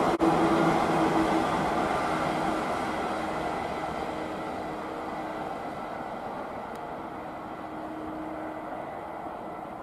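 A six-car 115-series electric train running away along the line, its rumble and steady hum fading gradually as it recedes.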